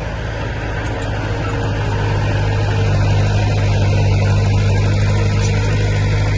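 Heavy diesel engine of earthmoving equipment running steadily with a deep hum, getting a little louder over the first few seconds.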